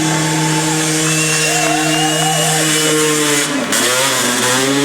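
Racing motorcycle engine held at high revs as it runs up the hill course. It shifts gear about three and a half seconds in, then pulls up again from lower revs.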